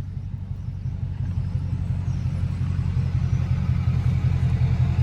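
Straight-piped Dodge Charger Scat Pack's 392 HEMI V8 exhaust giving a steady low drone while driving, heard from inside the cabin, growing gradually louder.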